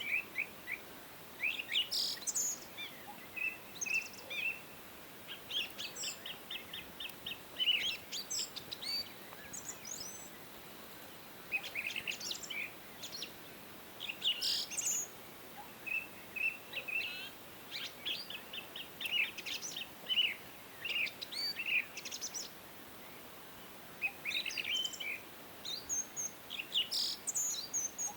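Songbirds singing and calling, with overlapping chirps and quick trills of rapidly repeated notes, over a faint steady hiss.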